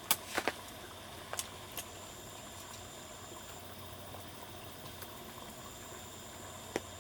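Faint, steady wash of outdoor water noise, with a few sharp ticks in the first two seconds and one more near the end.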